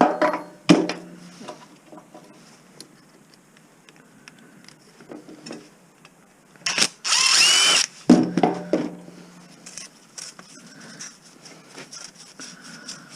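A handheld power tool runs in one short loud burst about seven seconds in, among scattered knocks and clinks of metal parts being handled.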